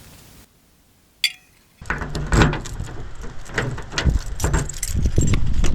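Irregular clinks and knocks with low thumps, starting about two seconds in after a brief near-silent gap: handling noise, with keys jangling.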